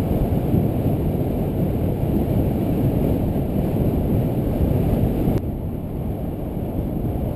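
Wind buffeting a GoPro's microphone on a moving road bike: a steady, loud, low rush that eases slightly about five seconds in.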